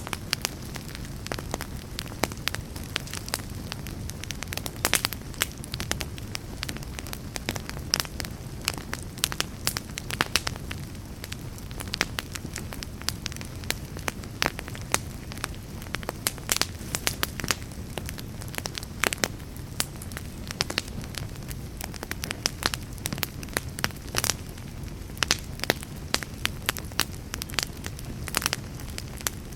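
Fire burning in a fireplace, crackling and popping irregularly over a steady low rumble of flames.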